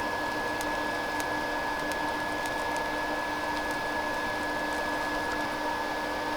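A small fan running steadily, giving a constant high whine over a lower hum, with a few faint ticks.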